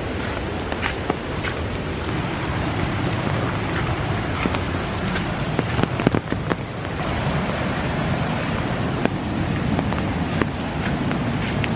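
Steady rushing noise of rain and running water, with a few sharp footsteps on wet gravel steps, the loudest about six seconds in.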